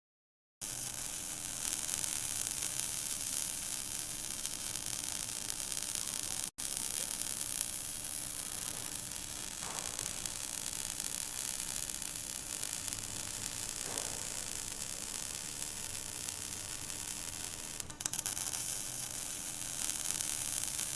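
Stick (SMAW) welding arc burning on a 7016 electrode: a steady crackling sizzle that breaks off for an instant about six and a half seconds in.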